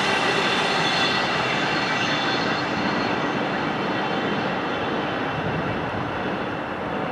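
Container freight train's wagons rolling away on the rails. A steady rush of wheel-on-rail noise slowly fades, with faint high wheel-squeal tones.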